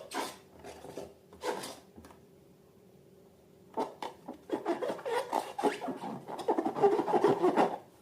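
Slime being worked by hand: two brief squishes near the start, then a dense run of crackling and clicking from about four seconds in, loudest near the end.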